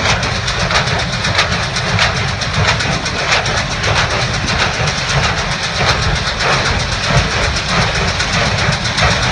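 1988 New Holland 575 small square baler running behind a tractor: steady engine noise with a regular clatter repeating about every 0.6 seconds.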